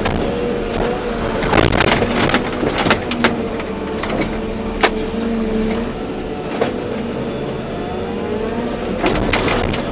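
Volvo EC240B excavator working: the diesel engine and hydraulic pump run steadily with a whine whose pitch shifts slightly as it works, and sharp clanks from the bucket and linkage come a few times.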